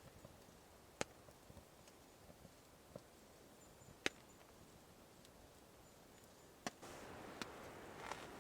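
Wood crackling in a hot-tent wood stove: a few sharp, separate pops over near silence, then soft rustling near the end.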